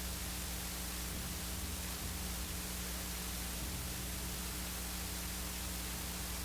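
Steady hiss with a low, steady hum underneath: the recording's background noise, with no other sound.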